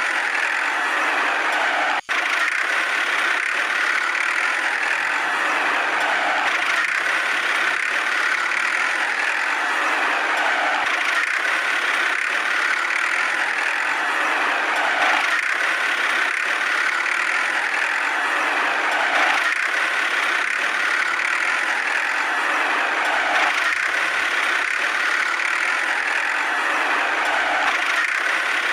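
Small DC toy motor in a homemade tractor model running steadily, with a brief break about two seconds in.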